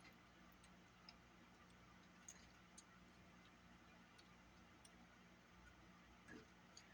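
Near silence with a few faint, scattered clicks of small parts being handled.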